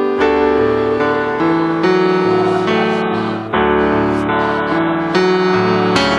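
Keyboard accompaniment playing sustained chords that change about every half second to a second, a musical passage without singing.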